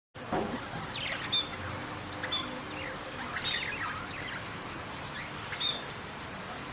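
A bird chirping: short, sharp calls that fall in pitch, coming roughly once a second over a steady background hiss.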